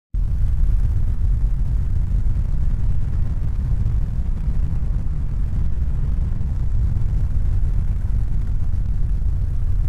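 A steady, loud low rumble with no clear pitch, starting abruptly out of silence.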